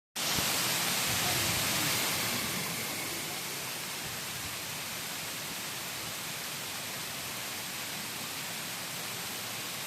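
Waterfall rushing as a steady wash of falling water. It is a little louder and brighter for about the first two seconds, then settles to an even level.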